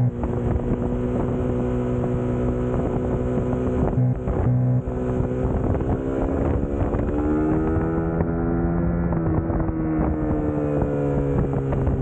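Suzuki GSX-S150's single-cylinder four-stroke engine running under way, heard from the bike with wind on the microphone. The engine note breaks briefly about four seconds in, then rises between about seven and ten seconds in before dropping back.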